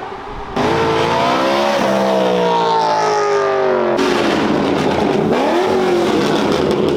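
Sports car engine accelerating hard, kicking in suddenly about half a second in; the engine note climbs, drops at a gear change and climbs again.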